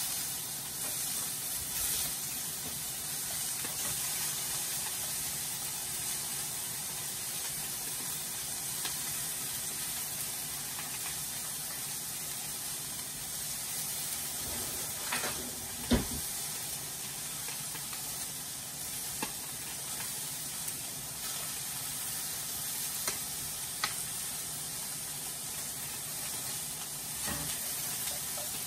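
Slices of meat sizzling steadily in oil in nonstick frying pans, the filling for bánh xèo being fried. Now and then chopsticks tap and scrape against a pan, with one sharp click, the loudest sound, about halfway through.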